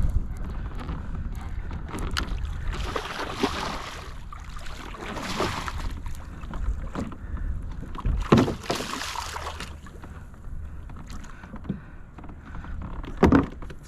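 Kayak paddle strokes swishing and splashing through the water in several washes, with a few sharp knocks, over a steady wind rumble on the microphone.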